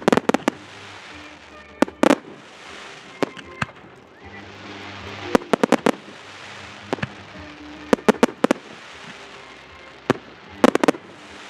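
Fireworks display: aerial shells bursting in quick clusters of sharp bangs every second or two, the loudest clusters right at the start and near the end, with a steady crackling hiss between the bursts.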